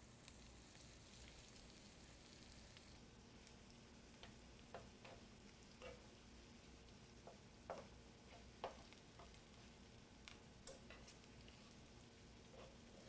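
Broccoli fritters frying in oil in a skillet: a faint, steady sizzle with scattered small pops and crackles, two of them sharper a little past the middle.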